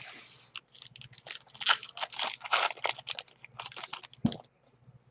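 Trading card packs and cards being handled: a quick run of crinkling and rustling that stops a little before the end.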